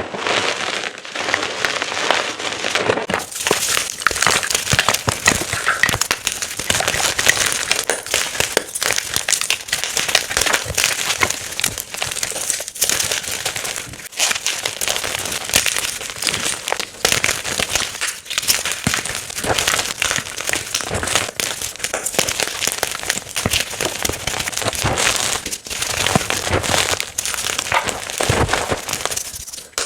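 Blocks of gym chalk being crushed and crumbled, a dense crunchy crackling. About three seconds in it changes to a brighter, sharper crunching.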